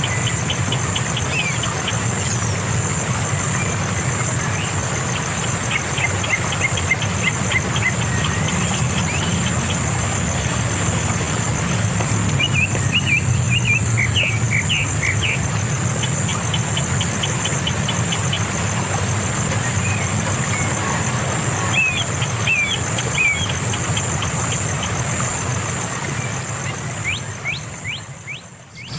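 Birds chirping in short calls and quick runs of ticks, over a steady low hum and a steady high-pitched whine. It all fades out near the end.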